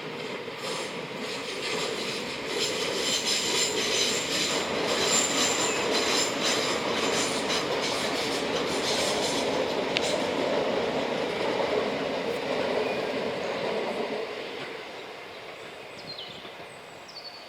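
A train rolling past, its wheels squealing high on the rails over a rhythmic clatter. The sound dies away after about fourteen seconds.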